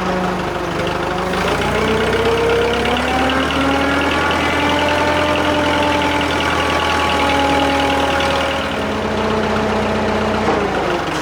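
Drott 85RM2 crane's engine running under hydraulic load as the boom is extended and the winch paid out: it revs up about two seconds in, holds there, then drops back toward idle near the end.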